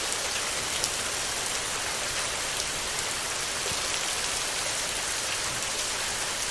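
Steady heavy rain on a tin roof: a dense, even hiss with faint scattered taps of single drops.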